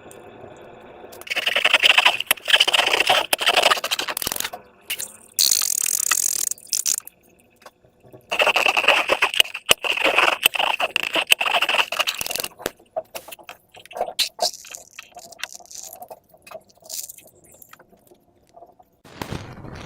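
Slime being worked by hand with balloons: sticky crackling and squishing in two long bursts of several seconds each, with softer scattered crackles in between.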